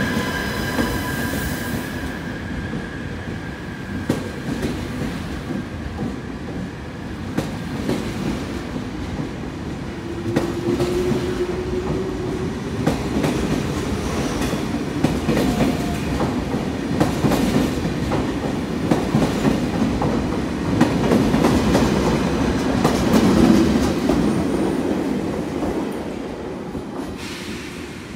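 Double-deck TGV train rolling past along the platform, its wheels clicking over rail joints and points. A high-pitched squeal dies away in the first two seconds. The rolling grows louder about twenty seconds in, then fades near the end as the last coaches pass.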